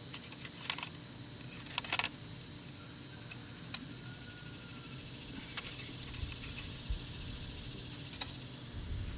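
A solid range rod pushing a bullet down a .45 caliber muzzleloader barrel through a loading funnel: scattered light metallic clicks and taps, a handful over several seconds. A steady high insect drone goes on behind.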